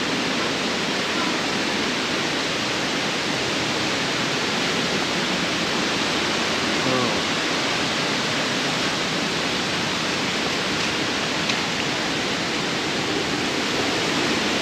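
A waterfall's cascade rushing steadily, an even, unbroken roar of falling water.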